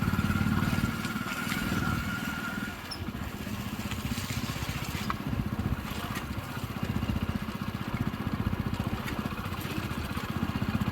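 Small engine running steadily with a fast low throb, heard from on board while travelling. A thin steady high tone sounds over the first two to three seconds.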